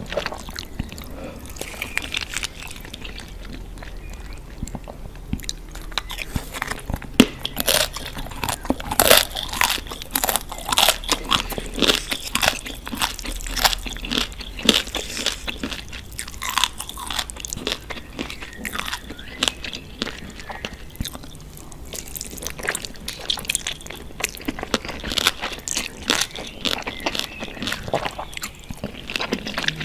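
Close-up eating sounds: someone biting and chewing crunchy food, with many sharp, irregular crunches that come thickest in the middle and again near the end.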